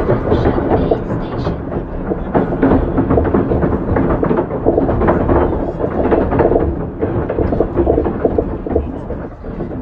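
Passenger train coaches rolling slowly past as the train pulls out of the station: a loud, continuous rumble of wheels on the rails, broken by frequent rattles and clunks.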